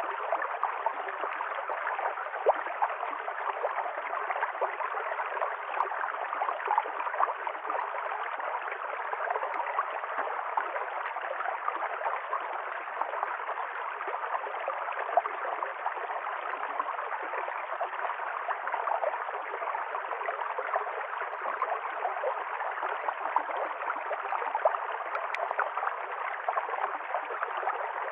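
A stream of running water, flowing and splashing steadily with fine bubbling detail.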